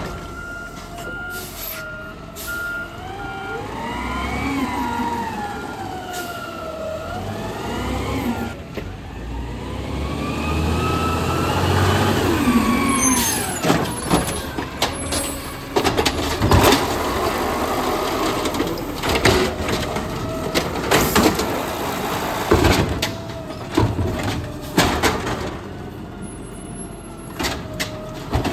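Garbage truck working: its engine revs up and down as the hydraulics run, with a backup alarm beeping for the first several seconds. Later come repeated metallic clanks and bangs.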